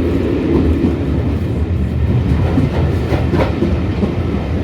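Heritage steam train's carriages running through a tunnel: a loud, steady rumble, with a few wheel clicks over rail joints about three seconds in.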